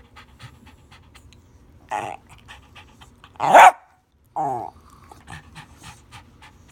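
Dog panting in quick, short breaths, a few a second, broken by odd vocal noises. There is a short one about two seconds in, a loud sharp cry around three and a half seconds, and a groaning whine that falls in pitch about a second later.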